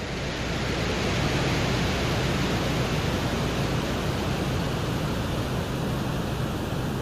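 Steady hiss with a low rumble: the Venera 14 lander's microphone recording from the surface of Venus, a microphone meant to pick up atmospheric wind noise to measure wind speed.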